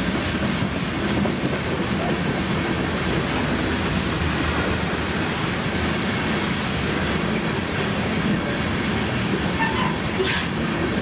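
Freight cars of a long manifest train rolling past with steady wheel-on-rail noise. There is one brief sharp high sound near the end.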